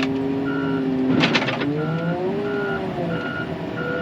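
Wheel loader engine running and revving up and down, with its reversing alarm beeping steadily from about half a second in. A short clatter about a second in, the loudest moment, fits concrete rubble knocking in the bucket.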